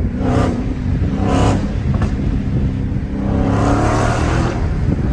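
Supercharged 6.2-litre HEMI V8 of a Dodge Challenger Hellcat through a straight-piped exhaust, running under load with two short, sharp surges in the first second and a half, then a longer pull where the note rises from about three and a half seconds in.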